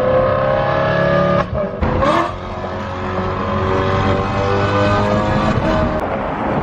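BMW E92 M3's V8 running through a loud exhaust under acceleration, its pitch rising slowly. There is a short break about a second and a half in, and then the engine runs on at a steady note.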